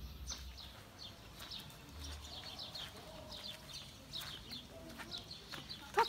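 Small birds chirping: a busy run of short, high chirps, each sliding quickly downward, several a second.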